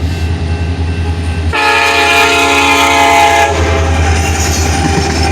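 Union Pacific locomotive horn sounding one steady multi-note blast of about two seconds, starting about a second and a half in, over the low, steady rumble of the passing train.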